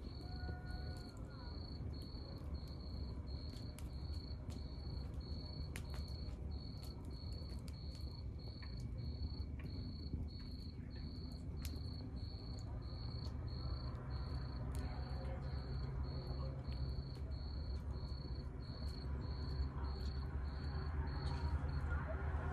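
A cricket chirping steadily, about one and a half chirps a second, over the low rumble of a wood fire with scattered crackles and pops from the burning logs.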